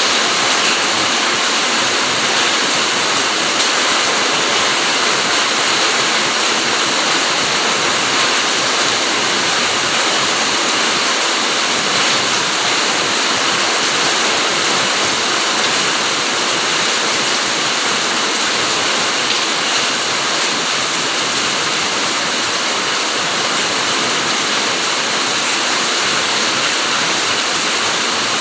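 Steady heavy rain falling, an even dense hiss with no separate drops standing out.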